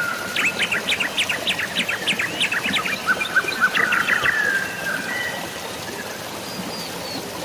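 Birds chirping rapidly over steady light rain, the chirps thinning out in the second half.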